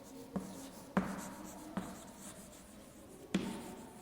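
Handwriting on a board: four short taps with a light scratching after each, as the writing strokes go on.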